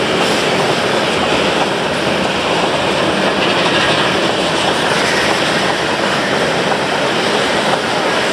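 Freight train of crude-oil tank cars rolling past: steel wheels on the rails making a steady loud rumble and rattle.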